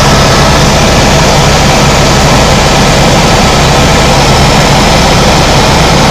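Tour helicopter in flight, heard from inside the cabin: a loud, steady drone of engine and rotor with a low hum that does not change.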